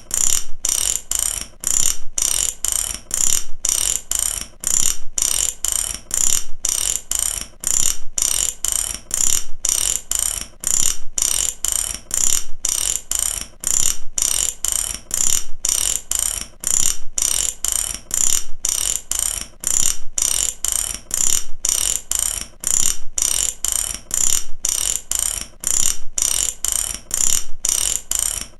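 Ratchet wrench being cranked back and forth: rapid pawl clicks in repeated strokes, about one stroke a second, steady throughout.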